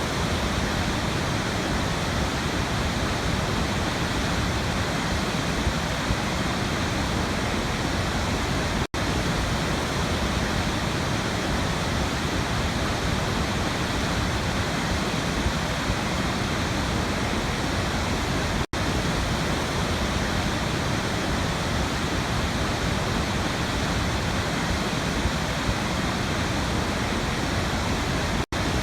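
Waterfall rushing with a steady, even roar of falling water. The sound cuts out for an instant three times, about every ten seconds.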